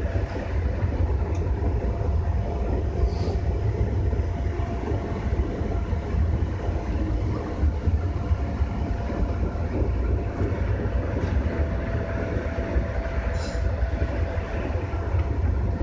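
Running noise of a JR West 201 series electric commuter train heard from inside the driver's cab: a steady low rumble with a faint steady tone over it and a few faint ticks.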